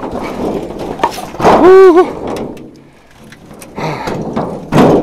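Handcart loaded with firewood being moved, with logs clattering and thunking. About a second and a half in, a short, loud strained vocal sound of effort, then a sharp knock near the end.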